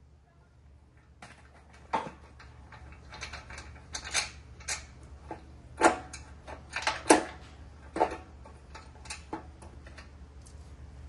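Irregular metallic clinks and knocks of tools and parts being handled during work on a riding-mower deck spindle, over a faint steady low hum.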